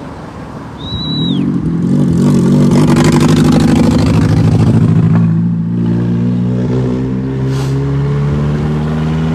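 A motor vehicle's engine running loud and close, its pitch climbing slowly as it accelerates through the second half. A short high whistle sounds about a second in.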